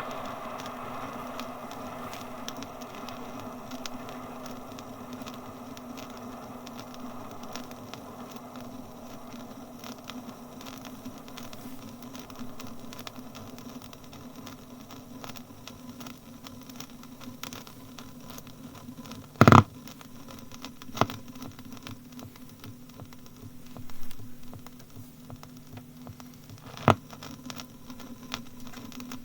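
Old disc record surface noise: a steady hum with constant fine crackle and a few loud sharp clicks, after the faint rumble of a passing train dies away in the first few seconds.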